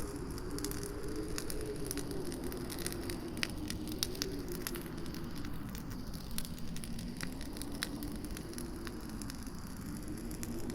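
Campfire crackling with frequent sharp pops, over wind howling in a low, wavering whistle that sinks and then rises again near the end.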